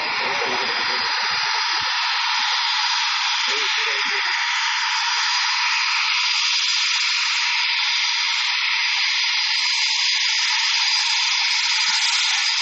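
Panavia Tornado's RB199 jet engines running: a steady, loud hissing rush with a high whistle held on top.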